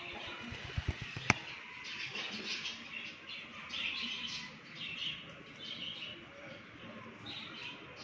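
Birds chirping in short, irregular calls, with a few soft thumps and one sharp click about a second in.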